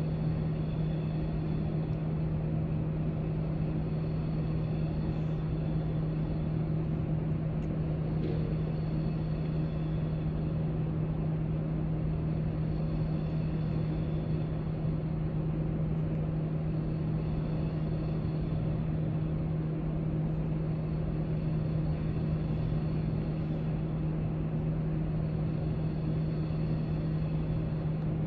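Steady library room noise: a constant low hum with an even hiss over it, and a few faint ticks scattered through.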